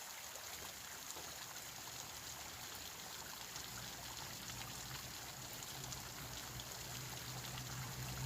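Mountain waterfall: water rushing and splashing over rocks as a steady hiss. A low hum comes in about halfway through and grows louder toward the end.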